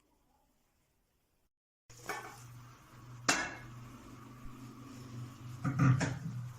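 Kitchen pots and utensils clinking and clattering, with one sharp clink and a burst of clattering near the end, over a steady low hum.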